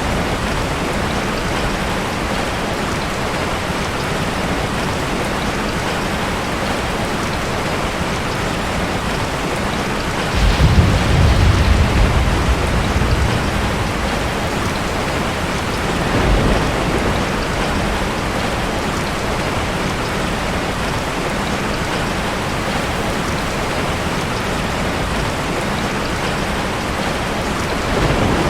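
Steady heavy rain falling, with a roll of thunder rumbling low and loud about ten seconds in for a few seconds. Fainter rumbles follow about halfway through and near the end.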